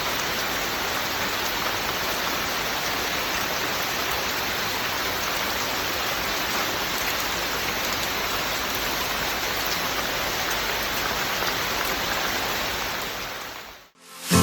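Steady rain falling, an even hiss of drops, that fades out over the last couple of seconds to silence.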